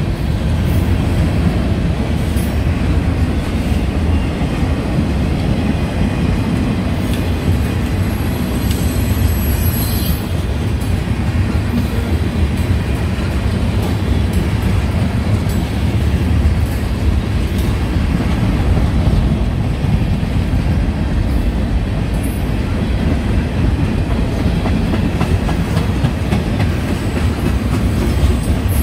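Freight train cars rolling past on the track: a steady, loud noise of steel wheels running on the rails, with a brief high wheel squeal about nine seconds in.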